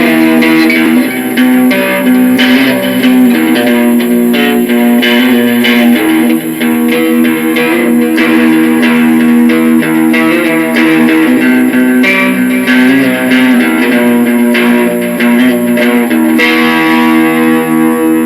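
Loud guitar music: plucked electric guitar notes over a held low chord.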